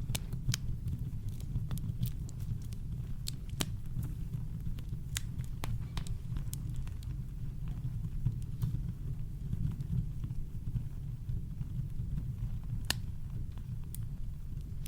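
Campfire crackling: irregular sharp pops and snaps of burning wood over a steady, deep low rumble of brown noise.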